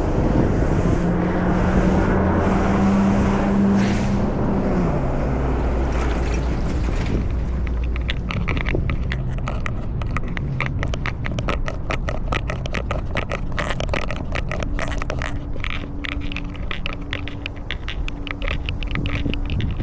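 A motor vehicle runs close by for the first several seconds, its hum dropping in pitch about five seconds in. From about eight seconds on, dense rapid crackling and scraping close to the microphone takes over.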